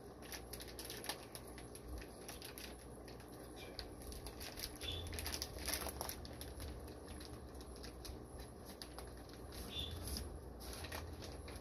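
Plastic fish-shipping bags crinkling and rustling as they are handled, a faint irregular run of small crackles and clicks.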